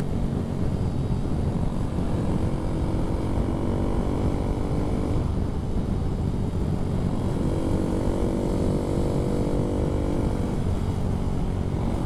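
Honda MSX125SF minibike's single-cylinder engine running while riding, its note shifting up and down a few times with the throttle.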